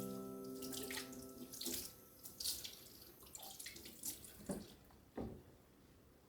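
Water running and splashing in irregular spurts.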